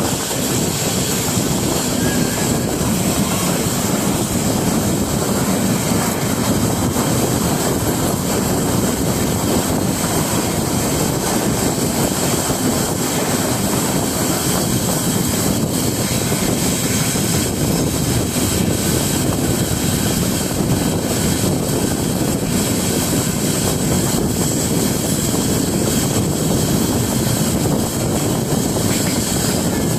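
Express passenger train running at speed, heard from an open coach doorway: a steady, loud rumble of wheels on rail mixed with rushing wind.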